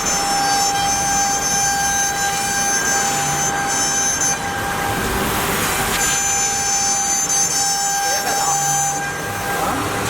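CNC wood router cutting MDF: a steady high-pitched whine from the machine's spindle and drives over the noise of the cut. The whine drops out twice, a little over four seconds in and again near the end, and comes back each time.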